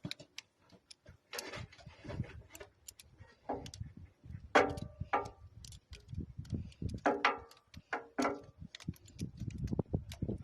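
Vise grip pliers working a tractor battery terminal clamp tight: an irregular string of small metal clicks and clinks, with a few short squeaks in the middle.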